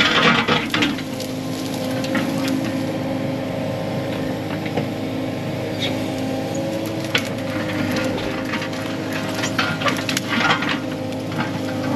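Diesel engine of heavy equipment running steadily while brush and branches crack and snap as they are broken, the snapping thickest near the start and again from about seven to eleven seconds in.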